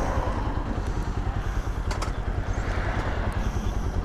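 Lifan KP motorcycle's engine running steadily while riding along.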